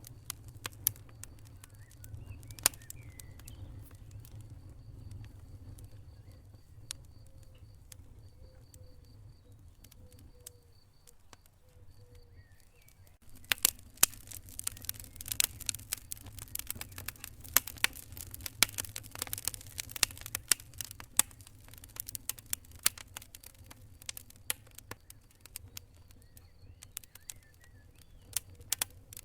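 A fire crackling: scattered sharp pops and snaps over a low, steady rumble. The crackling becomes much denser and louder about halfway through.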